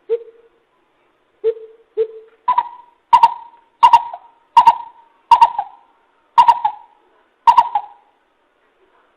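Coucal (bìm bịp) call played as a bird-trapping lure. A few low, spaced hoots are followed by a run of about seven higher hooting notes, each fading quickly.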